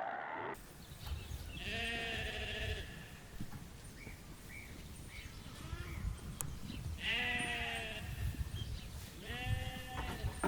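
Sheep bleating three times, each bleat about a second long with a quavering pitch, over a low rumbling background noise.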